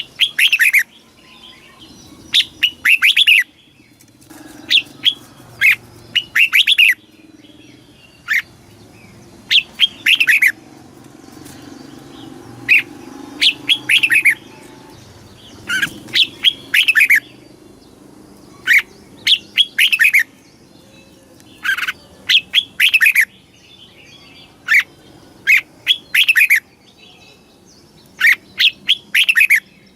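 Red-whiskered bulbul singing: short phrases of two to four quick, bubbly whistled notes, repeated every second or two with brief pauses between.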